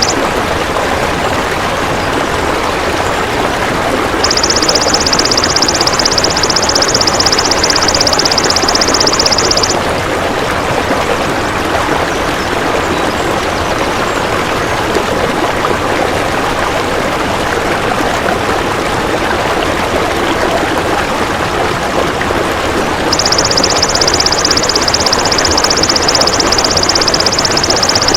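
Steady rushing water with two long, even, high-pitched buzzing trills from a golden grasshopper (belalang emas), each lasting about five seconds, the first a few seconds in and the second near the end.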